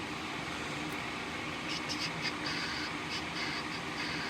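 Flux sizzling under a soldering iron: a string of short, high hisses from a bit under halfway in, over a steady fan hum.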